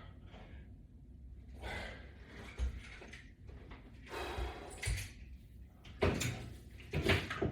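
Scattered rustling, clicks and knocks from resistance-band exercise equipment being handled and worked, with a few soft low thumps.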